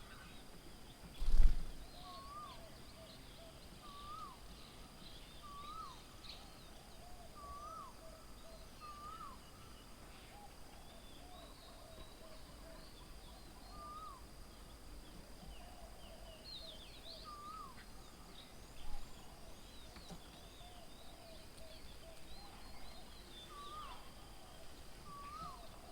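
Several birds calling: one repeats a short hooked note about once a second, while others add lower wavering notes and high chirps. A sharp low thump about a second in, and a smaller one later.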